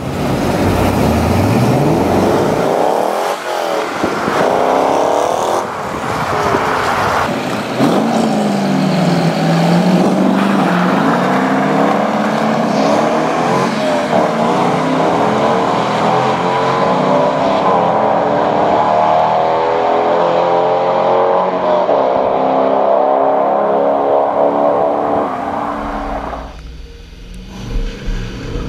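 Corvette Z06 V8 engines accelerating hard, the pitch climbing again and again as they rev up through the gears. The sound drops away briefly near the end, then comes back.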